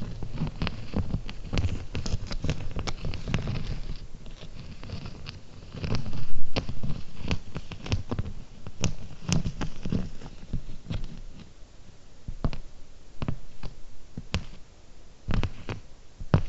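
Close-miked fingernails tapping and scratching on small hard objects. The taps are irregular, some quick and some spaced out, with soft rustling between them and a louder cluster about six seconds in.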